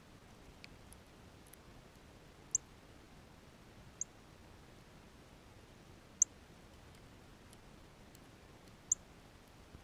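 Sharp, very short high-pitched chip calls of small birds at a feeder: four clear chips a second or two apart, with a few fainter ones, over a faint steady hiss.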